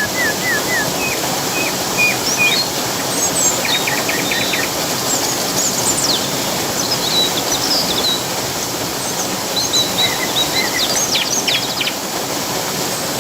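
Steady rush of flowing water, with several birds chirping and singing over it: a run of quick down-slurred notes at the start, short rattling trills about four seconds in and again near the end, and scattered high chirps between.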